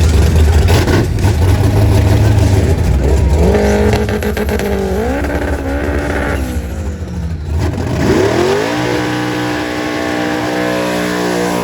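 Car engine running loudly with a heavy low rumble, then revving up and down several times and settling into a slowly falling note; the sound cuts off suddenly at the end.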